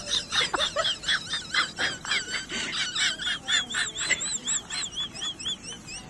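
Many small birds chirping, with rapid high-pitched calls overlapping and wavering trills repeating from about halfway through.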